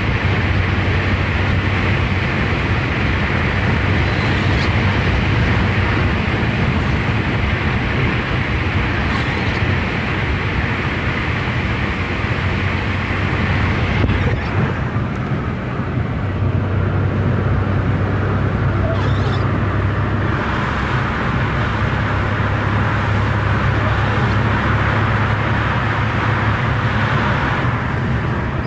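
Car driving at a steady speed: continuous engine hum and road and tyre noise, with somewhat more hiss in the second half.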